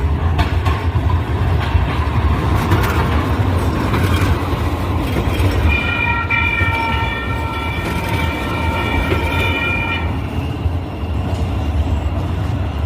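Sacramento Regional Transit light rail train running with a steady low rumble and a few sharp clicks; about halfway through, its horn sounds one long blast of about four seconds.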